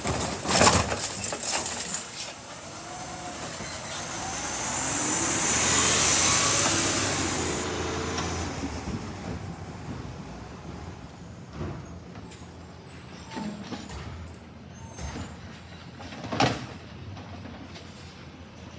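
Garbage truck running close by with a loud air hiss that swells and then cuts off about eight seconds in, over its low engine hum. A few sharp knocks come near the start and again about sixteen seconds in.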